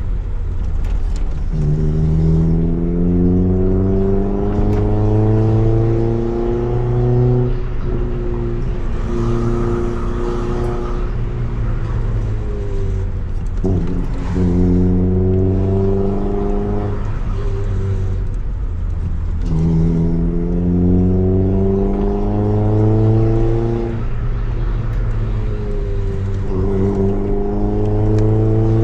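Honda EF Civic four-cylinder engine through a Tanabe Revel Medalion Touring S exhaust, pulling up through the revs several times. The pitch climbs during each pull and falls back between pulls.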